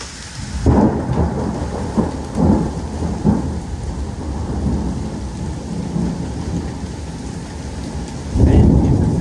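Thunder rumbling over steady rain from a supercell thunderstorm. A loud roll starts about a second in and another comes near the end.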